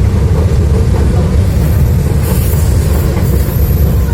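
KRL Commuter Line electric train running on the rails: a loud, steady low rumble, with a faint high squeal about halfway through.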